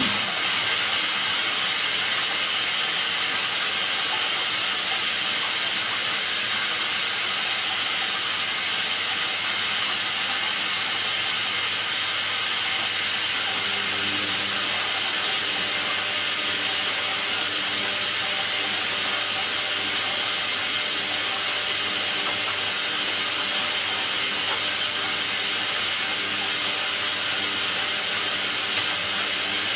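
Hoover washing machine filling for its final rinse: the water inlet valve opens suddenly and water hisses steadily into the machine. About halfway through, a faint low hum joins the hiss.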